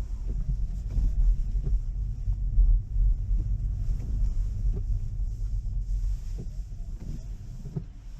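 Inside the cabin of a Tesla electric car driving slowly on wet pavement: a steady low road and tyre rumble with a hiss of water from the tyres.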